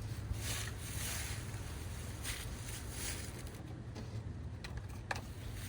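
Steady low rumble of wind on the microphone, with rustling in the first second and a half and a few small clicks, the sharpest about five seconds in.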